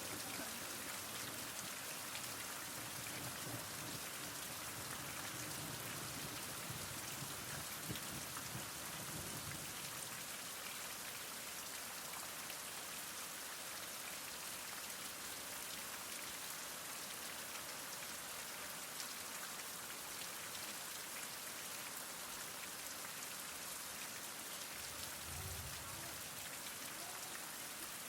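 Heavy rain falling steadily, a dense even wash of drops with fine ticks of individual drops. Brief low rumbles come and go, one near the end.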